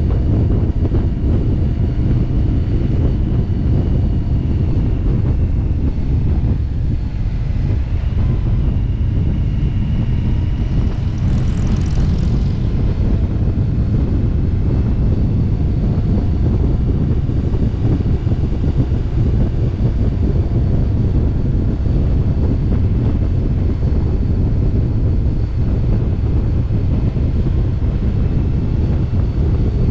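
Motorcycle engine running steadily at cruising speed, with wind rushing over the microphone. A short hiss swells and fades about twelve seconds in.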